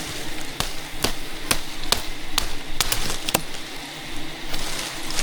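A regular series of sharp knocks, about two a second, that stops about three and a half seconds in.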